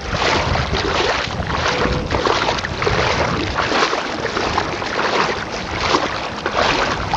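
Water splashing and sloshing as a person wades on foot through shallow sea water, towing a kayak, with wind rumbling on the microphone.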